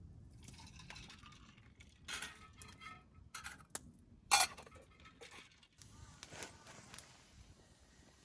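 Camp cookware and utensils being handled: scattered clinks, knocks and light scraping, with one sharp, louder clink about four seconds in.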